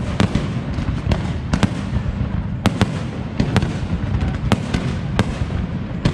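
Aerial fireworks display: a steady rumble of shell bursts with sharp bangs several times a second, irregularly spaced.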